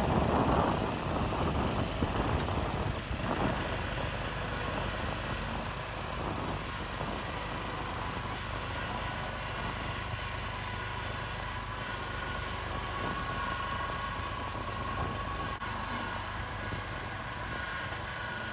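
Tractor engine running steadily, louder for the first few seconds and then evening out, with a faint steady whine in the later part.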